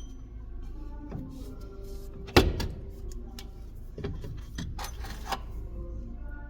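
Several sharp knocks over quiet background music, the loudest about two and a half seconds in with a short ring after it.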